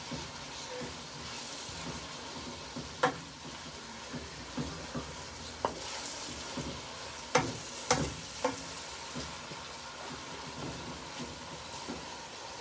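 Sliced onions and garlic sizzling steadily as they sauté in a pot, stirred with a wooden spoon. A few sharp knocks of the spoon against the pot, three of them close together past the middle.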